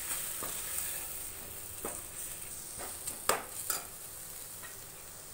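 Onion-tomato masala with chili and coriander powder sizzling in a stainless steel pan while a perforated steel spoon stirs it. The spoon scrapes and taps against the pan a few times, loudest twice a little past three seconds in.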